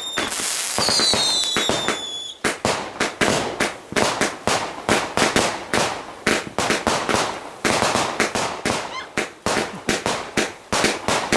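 Fireworks going off: a shrill whistling firework falling in pitch, then a rapid string of sharp bangs and cracks, several a second, from about two seconds in.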